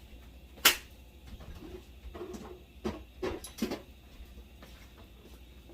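Kitchen handling sounds: one sharp click about two-thirds of a second in, then a quick run of several knocks about three seconds in, as utensils and containers are handled at the pan.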